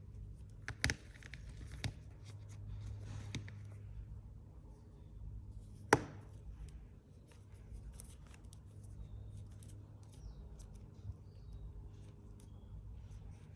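Action figure packaging being handled and opened: scattered clicks and rustles, with one sharp snap about six seconds in, over a low steady hum.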